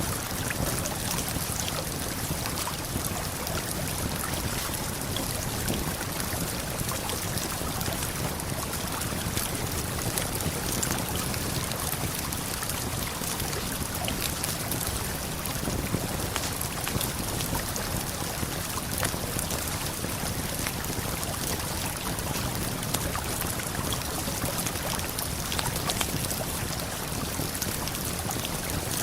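Steady rush of a waterfall and flowing river, with frequent small crackles and pops of a wood campfire scattered through it.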